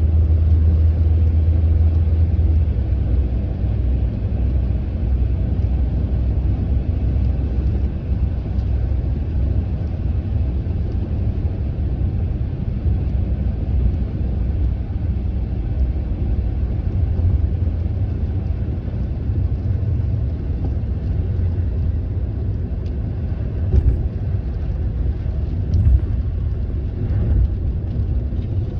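Steady road rumble inside a moving car's cabin: low engine and tyre noise from a car driving on a rain-wet road. The rumble is heaviest in the first few seconds, and there are a couple of brief faint ticks a little before the end.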